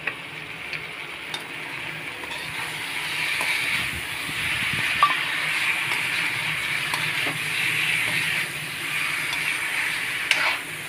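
Jackfruit pieces frying in spice masala in a metal kadhai, sizzling as they are stirred with a metal spoon. The sizzle swells a couple of seconds in, and the spoon clinks against the pan about halfway through and again near the end.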